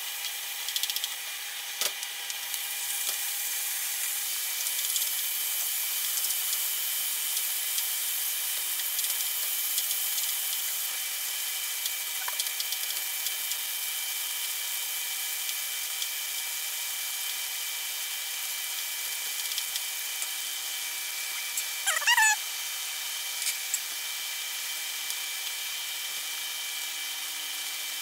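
Onions, peppers and diced chicken frying with a steady sizzle in a nonstick wok, stirred with a wooden spoon, over a steady high whine. About three quarters of the way through comes a brief, louder wavering squeak.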